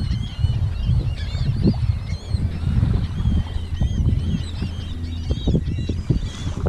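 A large flock of seagulls calling constantly, many short arched cries overlapping one another, over a steady low rumble.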